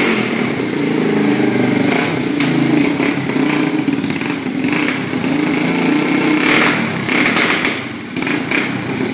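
ATV engine running on a freshly rejetted carburettor, its pitch and level rising and falling with the throttle, dipping briefly near the end.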